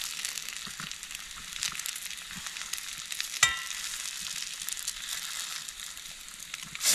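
Fried potatoes, onions and eggs sizzling steadily in a pan. A single sharp tap that rings briefly comes about three and a half seconds in, and the sizzle swells louder near the end.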